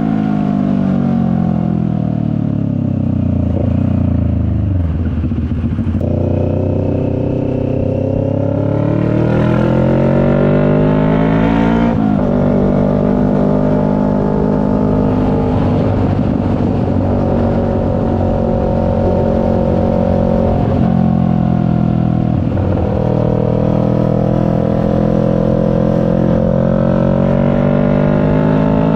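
CFMoto 400NK's 400 cc parallel-twin engine under way. The revs fall, then climb and drop sharply at a gear change about twelve seconds in, hold steady, ease off briefly past twenty seconds and climb again.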